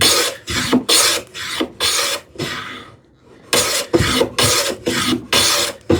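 Hand plane taking quick, short strokes along the edge of a wooden drawer front, each stroke a brief rasping scrape, about two a second, with a short pause about halfway through. The strokes are trimming off an overhang.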